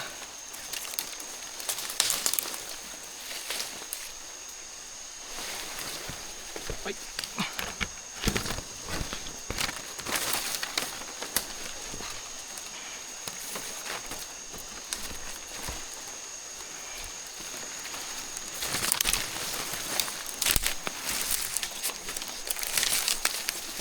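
Irregular rustling, snapping and footsteps of people moving through forest undergrowth, over a steady high-pitched whine.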